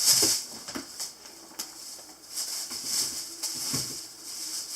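Irregular rustling with a few light knocks: a sink faucet and its parts being handled and checked.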